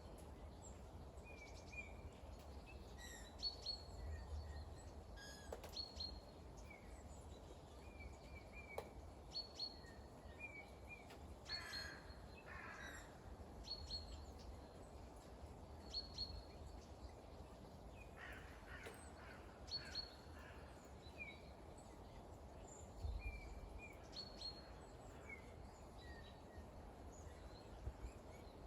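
Small birds chirping faintly, short calls every second or two with a few louder bursts of calling, over a steady hiss of light rain and a low outdoor rumble.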